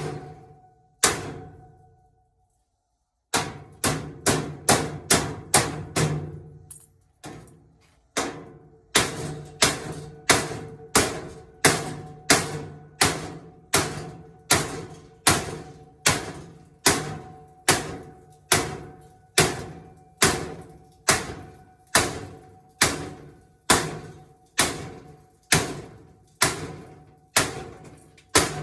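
Repeated hammer blows on a metal part of a washing machine, about one and a half a second, each ringing briefly at the same pitch, with a short break near the start.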